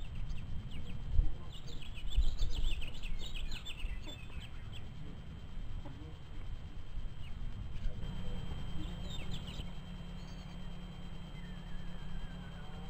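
Small birds chirping in quick high clusters, twice, over a steady low rumble.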